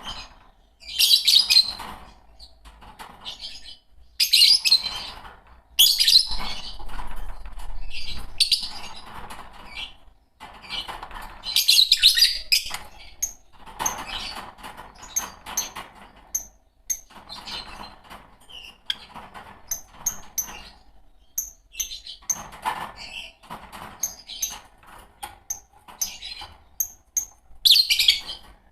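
A pair of green Fischer's lovebirds chirping in loud, shrill bursts every second or two, with quick runs of short, very high chirps in between.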